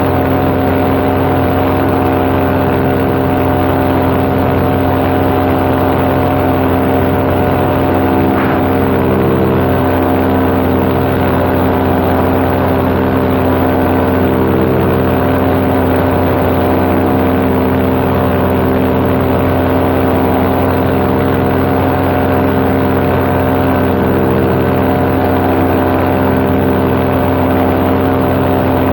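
Paramotor's two-stroke engine and propeller running steadily at cruise power in flight, one unchanging drone.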